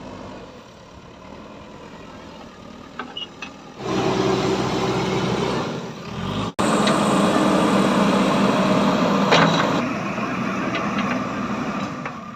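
Heavy diesel engine running steadily, quieter for the first four seconds, then much louder. It breaks off for an instant about six and a half seconds in, and stops abruptly at the end.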